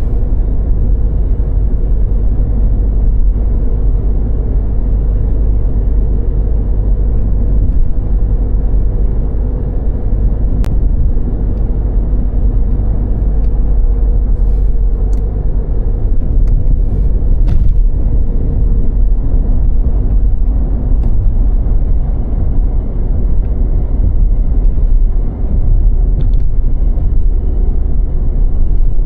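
Car driving on a snow-covered road: a steady low rumble of tyre and road noise with the engine, with a few faint clicks.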